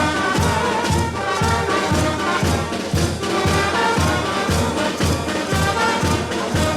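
Brass band playing a tune over a steady bass drum beat of about two strokes a second.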